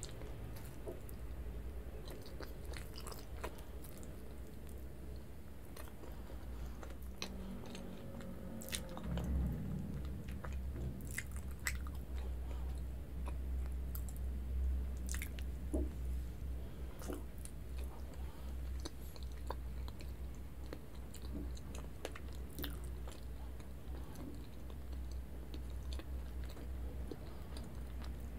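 Close-miked chewing of soft, sticky mochi rice cake, with many small wet mouth clicks and smacks scattered throughout.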